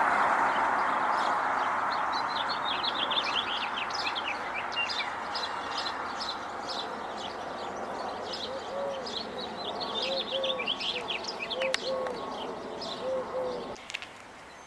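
Songbirds chirping with many short, quick high notes over a steady background rush. From about halfway in, groups of short low cooing notes join them. The sound drops away abruptly shortly before the end.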